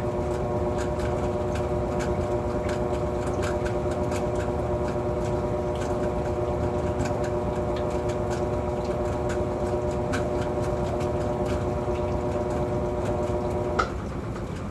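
Whirlpool washing machine spinning a heavy load of towels: a steady motor whine over a rumble, with scattered irregular ticks. Near the end the whine cuts off with a click and the drum starts to coast down.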